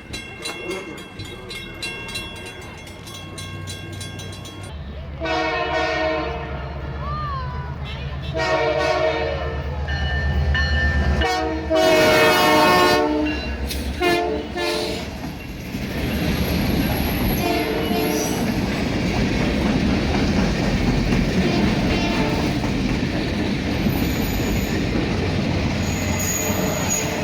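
Canadian Pacific Holiday Train approaching a level crossing: the crossing bell rings, then the locomotive's air horn sounds several blasts between about five and fifteen seconds in. The horn is followed by the loud rumble and clickety-clack of the locomotive and cars passing close by.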